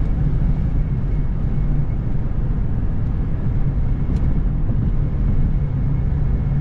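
Car interior noise while driving at speed: a steady low rumble of road and engine, with a faint click about four seconds in.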